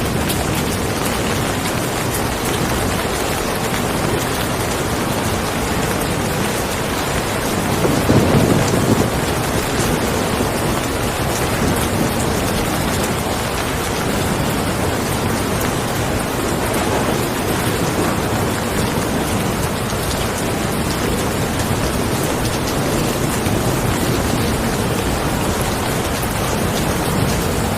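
Steady rain falling hard, with a short low rumble of thunder about eight seconds in.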